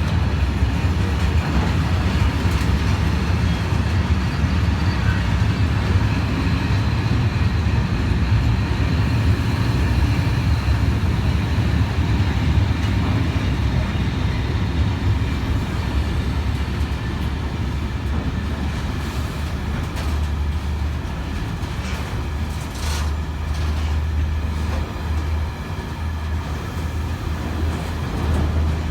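Diesel-hauled engineers' freight train running past: a steady low engine drone with wagon wheels rolling on the rails, and a few sharp knocks a little over twenty seconds in.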